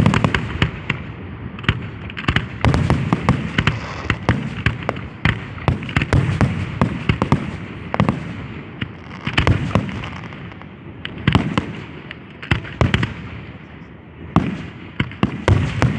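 Fireworks going off in a rapid, overlapping barrage of sharp bangs and crackles with a low rumble beneath, thinning out about two-thirds of the way through and then picking up again near the end.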